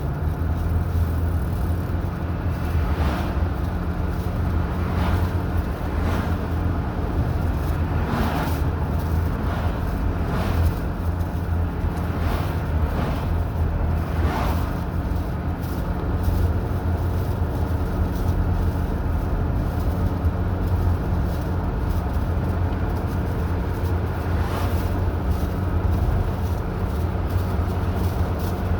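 Car driving at steady speed: a constant low drone of engine and road noise, with a few faint brief knocks about 3 to 15 seconds in and again near the end.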